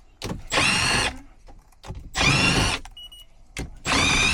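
Cordless drill-driver spinning out the screws of an HVAC unit's access door: three short whining runs of the motor about a second and a half apart, with small clicks between them.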